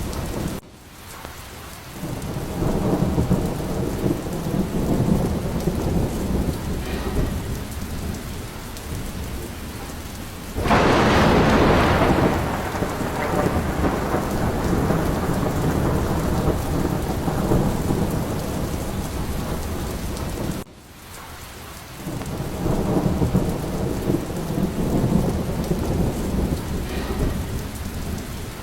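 Steady rain with low rolling thunder rumbling through it. About ten seconds in, a sudden louder burst of thunder lasts a couple of seconds. Twice the sound drops off sharply and then swells back.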